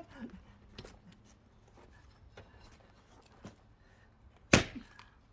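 A single hard axe blow into a firewood log about four and a half seconds in, after a few faint knocks of handling the wood.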